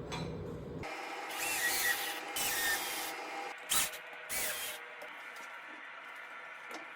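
A low hum cuts off about a second in. Then come four short rubbing or hissing strokes on wood, some with a faint squeak.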